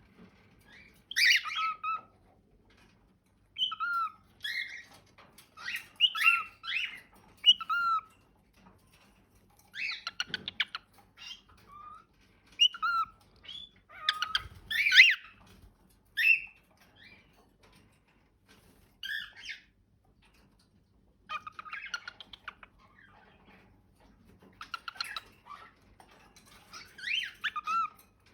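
Cockatiel calling in bursts: short curved whistle notes mixed with harsh, rasping squawks, separated by brief pauses.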